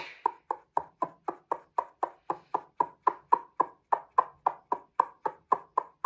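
A fast, evenly spaced series of short pinging clicks, about four a second, each dying away quickly.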